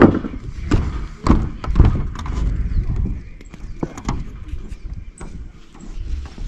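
A few dull thumps and knocks over a low rumble. The loudest comes right at the start, and others about a second and a half and four seconds in.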